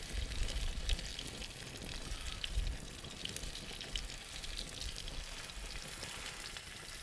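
Food sizzling in a frying pan over a wood fire: a steady hiss with small crackles and pops scattered through it.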